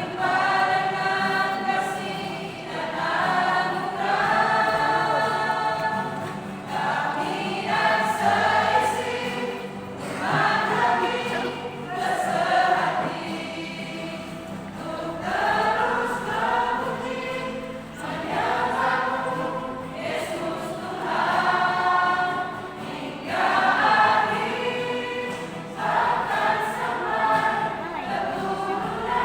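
A church choir singing a hymn in several voices, in sung phrases a couple of seconds long.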